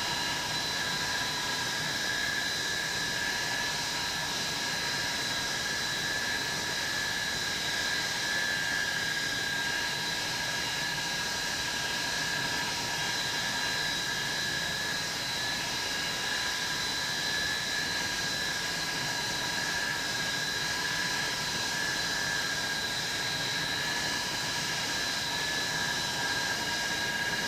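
Avro Vulcan B2's Bristol Olympus turbojet engines running at a steady setting: a constant rushing noise with a high, steady whine that holds unchanged throughout.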